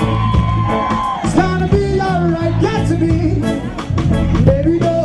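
Live reggae band playing, with a steady bass line, guitar and a melodic lead line wandering over the top.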